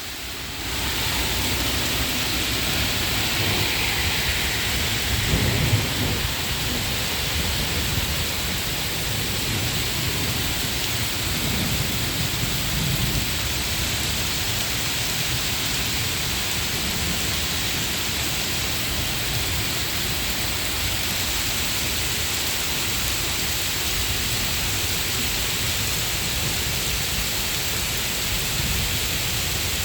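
Heavy rain pouring steadily, with low rolls of thunder about five seconds in and again around twelve seconds.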